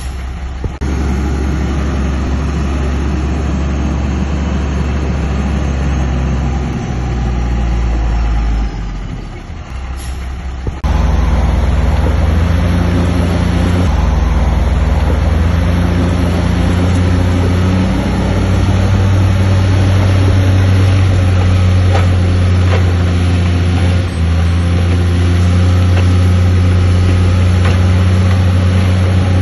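Heavy diesel engine of a construction machine running steadily under load; it dips briefly about ten seconds in, then comes back louder and steady.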